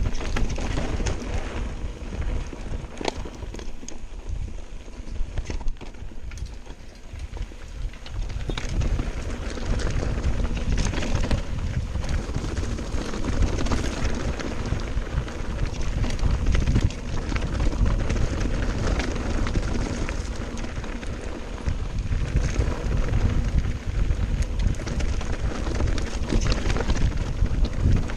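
Mountain bike descending a rough trail: tyres and bike rattling over stones in many short clicks, with wind rumbling on the microphone, louder from about eight seconds in.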